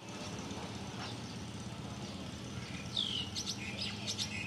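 Small birds chirping, starting about three seconds in with a falling whistle and then quick high chirps, over a steady low background hum.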